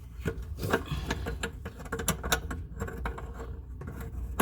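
Irregular small clicks and scrapes of hands threading mounting nuts onto a bathroom faucet's shanks under the sink.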